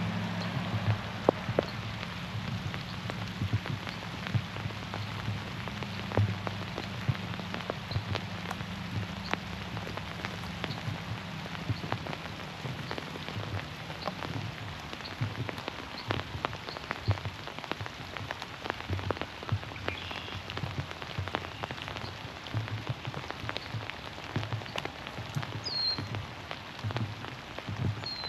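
Steady rain falling through trees, with many sharp drops tapping on nearby surfaces. A couple of short bird chirps come through about two-thirds of the way in and near the end.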